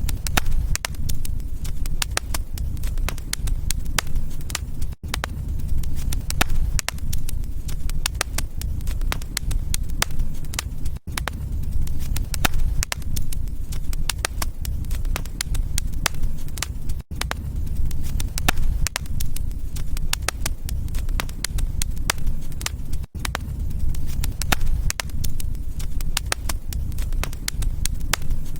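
Wood fire in a fireplace crackling and popping steadily over a low rumble of the flames. The sound dips briefly about every six seconds.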